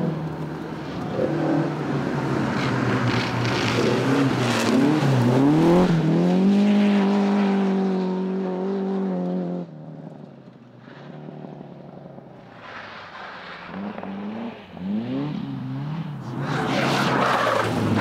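Rally car engine at full throttle, its pitch sweeping up and down through gear changes and then holding a steady high note until it cuts off suddenly about nine and a half seconds in. After a quieter stretch, engine revving rises again and is loud near the end.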